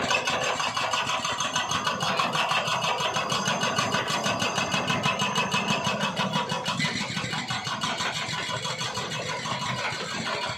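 A small engine running steadily, with a fast, even chugging throughout.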